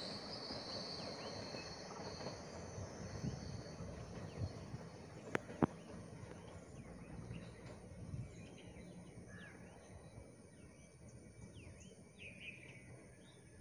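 Rumble of an Indian Railways passenger train fading as it runs away down the line, with two sharp clicks about five seconds in. Birds chirp as the rumble dies away.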